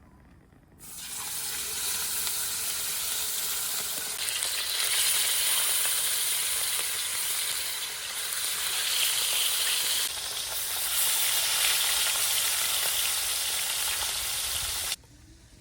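Food frying in hot oil, a loud steady sizzle that starts abruptly about a second in and cuts off suddenly near the end.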